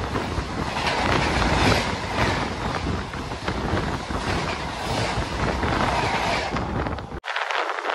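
Loud, steady rush of a high-speed passenger train of LHB coaches running alongside on the adjacent track, wheel-on-rail noise and wind mixed together, heard from the open door of another moving train. About seven seconds in, the low rumble cuts off suddenly, leaving a thinner hiss.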